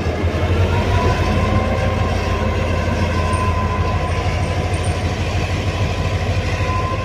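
A train running at the station: a steady heavy low rumble, with a thin steady whine from about a second in.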